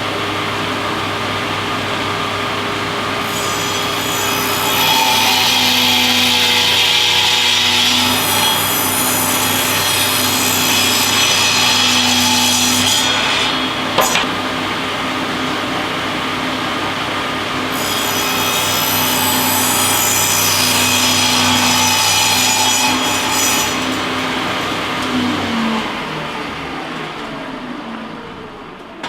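Power saw running steadily and cutting through a 1x6 board twice, each cut a long loud rasp over the motor's hum, with a sharp click between them. About 25 seconds in, the saw shuts off and spins down.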